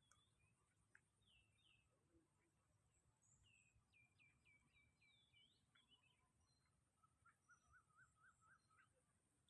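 Very faint birdsong over near silence: a run of quick chirps a third of the way in, then a string of about seven even notes near the end.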